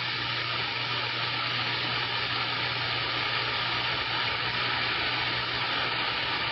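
CB radio receiver static: a steady hiss of band noise on an open channel, with a low hum underneath.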